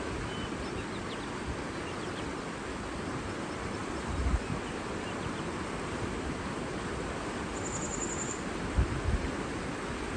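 Outdoor nature ambience: a steady rush of water and wind, with low wind buffets on the microphone about four seconds in and again near the end. A brief high, pulsing trill sounds about eight seconds in.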